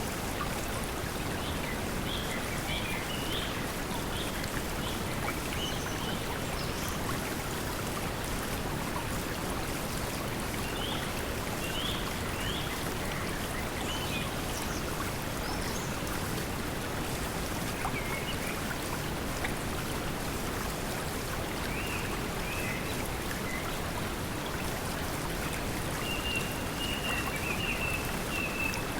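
Steady pink noise blended with flowing stream water, and bird chirps scattered over it now and then. Near the end a longer warbling birdcall runs for a couple of seconds.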